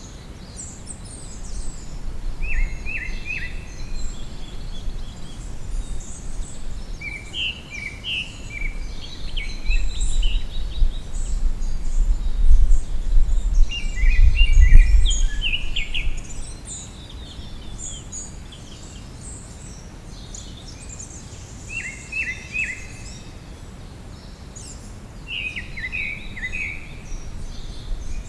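Several wild birds singing and chirping in spring woodland: short song phrases come every few seconds over a scatter of high chirps. Beneath them a low rumble swells through the first half and is loudest about fifteen seconds in.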